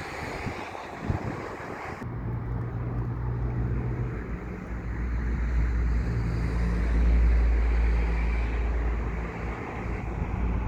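Wind on the microphone, then from about two seconds in the deep, steady hum of a diesel rail vehicle's engine, growing louder toward the middle and easing off near the end.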